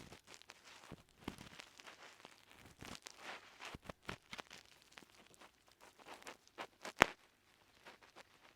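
Ear pick scraping and scratching deep in an ear in irregular rustling strokes, with a crackle of earwax, and one sharp, loud crackle about seven seconds in.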